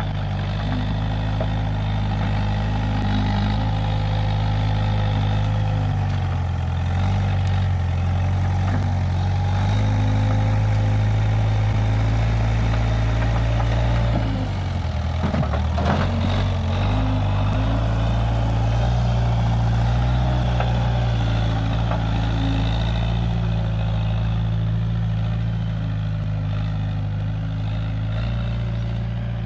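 Case 580G backhoe loader's diesel engine running steadily. About halfway through, the engine note drops briefly, as under load, with a few knocks, then comes back up.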